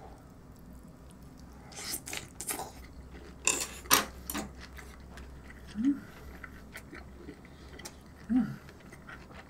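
A person chewing a big mouthful of braised pork rib meat wrapped in kimchi, with wet smacking and crunching clicks, loudest about two to four seconds in. Two short low hums of the mouth closed come later, about two and a half seconds apart.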